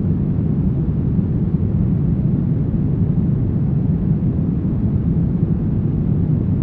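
Steady brown noise: an even, deep rumble-like hiss with most of its weight in the low end and little treble, unchanging throughout.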